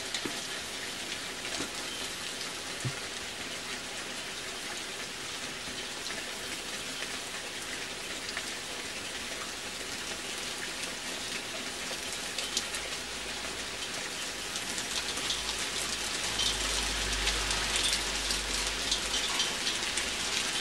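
Heavy rain mixed with some hail falling on a balcony and garden: a dense, steady hiss of drops with many small sharp ticks. It grows heavier about three-quarters of the way in, with a low rumble for a few seconds near the end.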